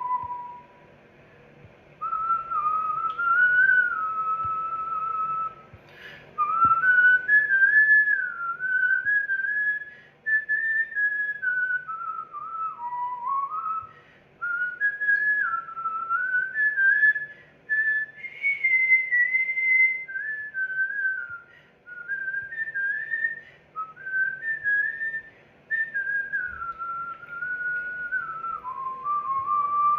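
A person whistling a tune: a single clear pitched line that steps up and down in short melodic phrases, broken every few seconds by brief pauses for breath.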